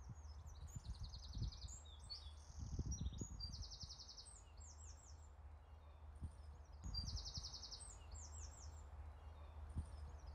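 Small songbirds singing: several rapid, repeated trills and chirps over a low, steady rumble.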